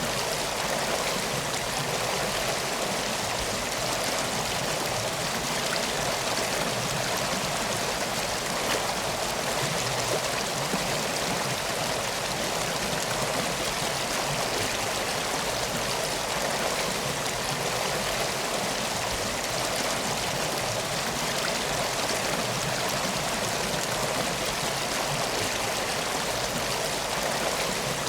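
River water flowing steadily: an even, unbroken rush with no distinct crackles or drops.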